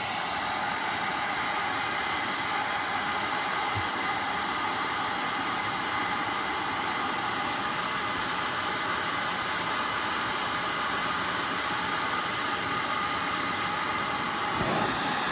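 Electric hot-air blower running steadily with a faint whine, heating the bi-metal strip on the front of a viscous fan clutch. A brief low bump near the end.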